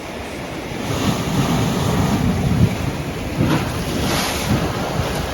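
Wind buffeting the microphone over the rushing wash of sea water aboard a sailing catamaran. The rushing grows louder about a second in and stays up.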